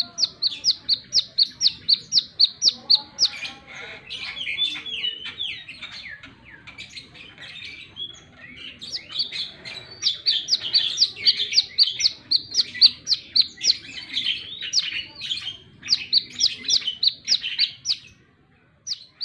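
Brown-throated sunbird (kolibri kelapa) singing a loud, rapid run of sharp, high chirps, about four or five a second, with a more varied warbled stretch partway through. The song breaks off briefly near the end, then resumes with a few more chirps.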